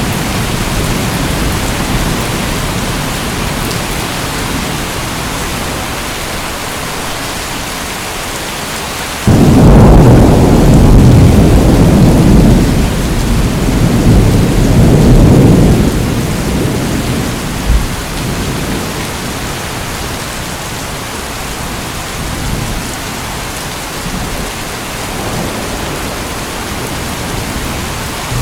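Steady heavy rain with thunder: a deep rumble breaks in suddenly about a third of the way through, rolls in several swells, then fades back under the rain.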